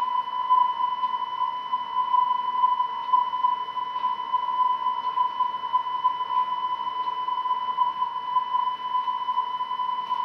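A steady, unbroken electronic tone at about 1 kHz, with fainter overtones and a hiss beneath it, heard at the blank end of a VHS tape.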